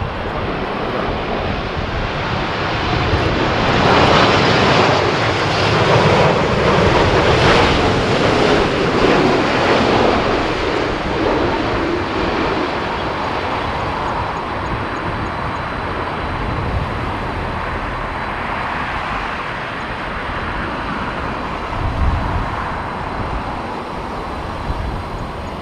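Boeing 787 jet engines on a landing approach passing close by, the engine noise swelling to its loudest about four to ten seconds in, with a falling whine as the aircraft goes past, then easing off. Strong gusty wind buffets the microphone throughout.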